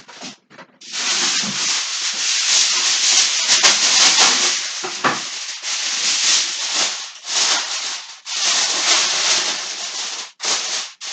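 Aluminium foil crinkling and rustling loudly as it is handled and pressed over a pan of chicken, in long stretches with short pauses about six, eight and ten seconds in.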